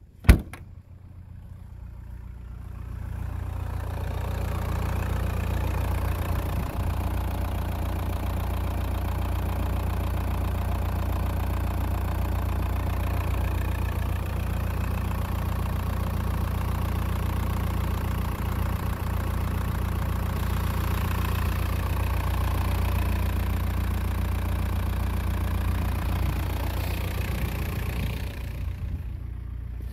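Audi A4 B6's 1.9 TDI (AVB) four-cylinder turbodiesel idling steadily with a diesel clatter, growing louder over the first few seconds and fading near the end. A sharp click just at the start.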